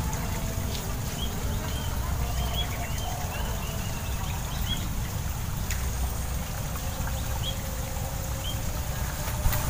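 Small bird chirping over and over, short hooked chirps every half second or so, over a steady low rumble.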